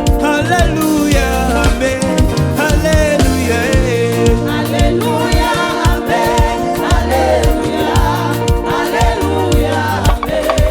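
Gospel praise and worship music: voices singing a melody over sustained keyboard chords, a bass line and a steady drum beat.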